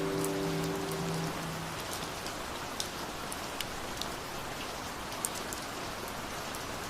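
Steady rain falling, an even hiss with scattered louder drops ticking. The held notes of the previous song die away in the first second or so.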